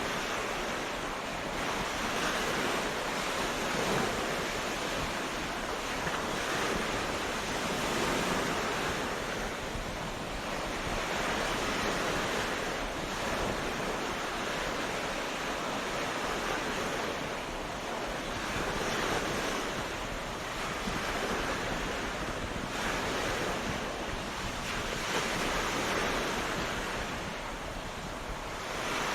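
Ocean waves breaking on a beach, the surf swelling and easing every few seconds in a steady wash.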